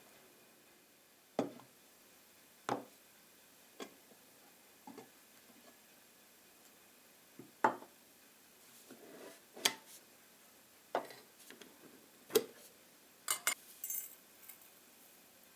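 Light clinks and taps of dishes and utensils, about a dozen separate strikes at irregular intervals.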